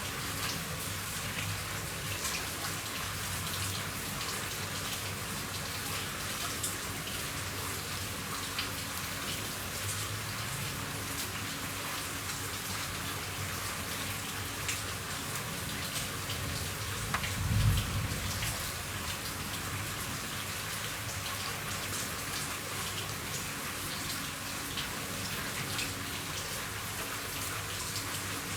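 Steady rain falling on a roof, a dense patter with individual drops ticking through it. A single brief low thump comes about two-thirds of the way through.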